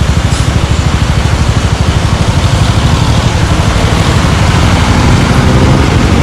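Suzuki Gixxer 155's single-cylinder engine running through an aftermarket exhaust, a steady fast low pulse that grows a little louder in the second half.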